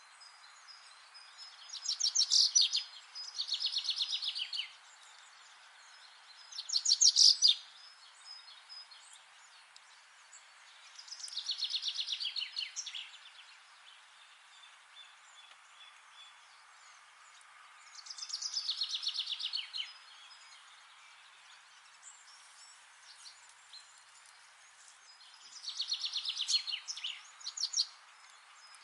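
A songbird singing fast, high trilled phrases, each lasting one to two seconds and slightly falling in pitch, repeated about six times with gaps of several seconds between them. A steady faint outdoor hiss runs beneath.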